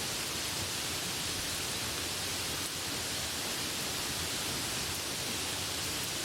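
Rain falling as a steady, even hiss.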